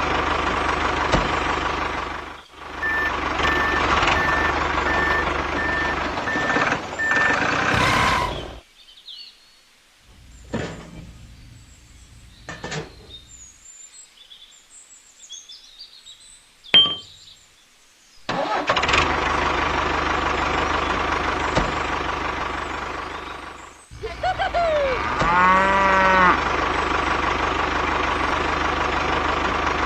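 Tractor engine running steadily, with a run of short even beeps between about three and seven seconds in. It cuts off suddenly about eight seconds in, leaving a quiet stretch of scattered clicks and knocks. The engine sound comes back about eighteen seconds in, drops out briefly near twenty-four seconds, and resumes with a short gliding tone.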